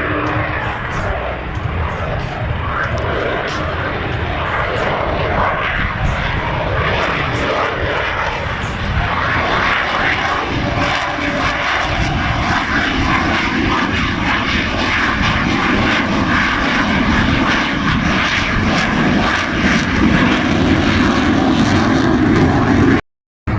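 Aircraft engine noise from a plane flying over, loud and continuous, growing somewhat louder in the second half. The sound cuts out abruptly for a moment near the end.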